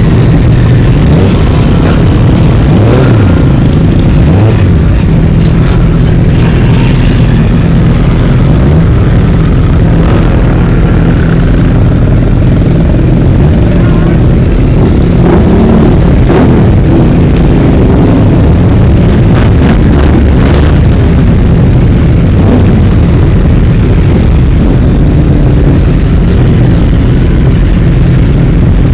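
A long line of motorcycles riding past one after another, their engines running continuously with the pitch rising and falling as bikes come and go.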